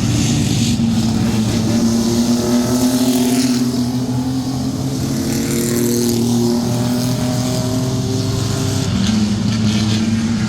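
Sport truck racing pickups running at speed on the track, several engines droning together. Their pitch slowly rises and falls as the trucks accelerate and pass.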